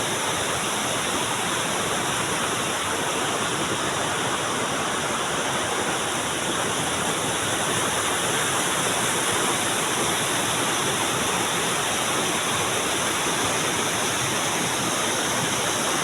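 Rushing river water, a steady unbroken rush.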